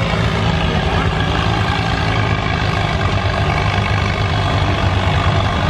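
Farm tractor engine running steadily under heavy load while pulling a weight-transfer sled down the pull track.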